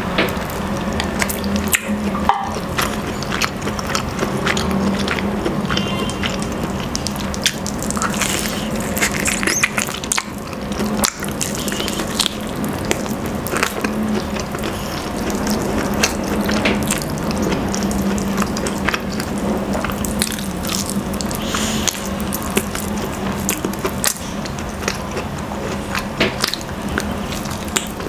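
Close-miked wet chewing, lip-smacking and finger-sucking as roast chicken is eaten by hand: a quick, irregular run of sharp smacks and clicks, with a steady low hum underneath.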